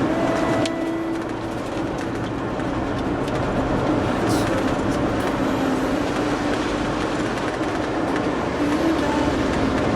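Steady road and engine noise heard from inside a moving vehicle, with a low, slightly wavering drone.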